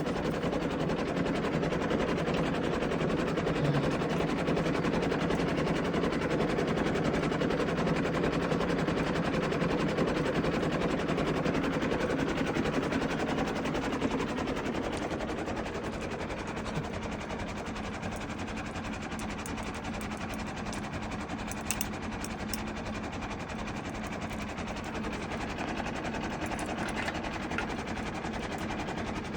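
Compact tractor engine running steadily under load as it works a plowed field, louder for the first half and then somewhat quieter from about halfway.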